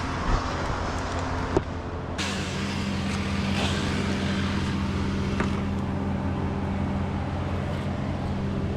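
An engine running steadily at idle, a low even drone with no revving. A couple of brief knocks sound in the first two seconds.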